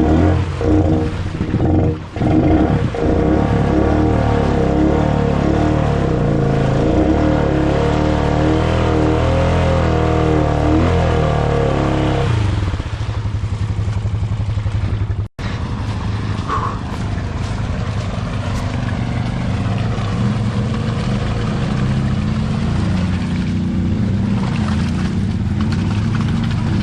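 ATV engine revving hard, its pitch rising and falling for about the first twelve seconds, then settling to a lower, steadier run. About fifteen seconds in there is a brief cut-out, after which the engine runs on steadily.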